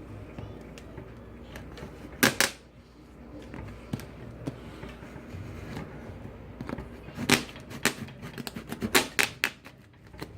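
Scattered clicks, taps and rustles as a model-aircraft box and its packaging are handled and opened. There is a louder scraping burst about two seconds in and a run of sharp clicks near the end.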